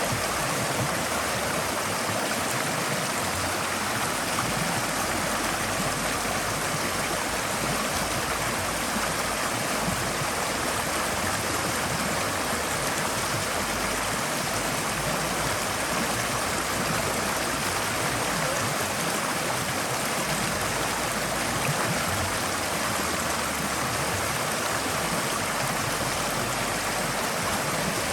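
Forest stream flowing steadily over stones: continuous, even rushing and gurgling of water.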